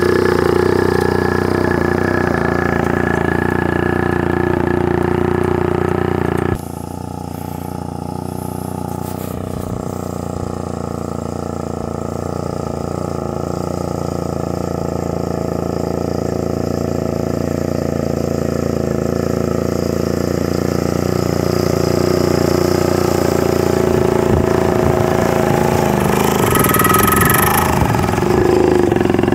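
Rajdoot motorcycle's two-stroke single-cylinder engine running steadily. It drops in level suddenly about six and a half seconds in, then grows gradually louder as the bike comes closer.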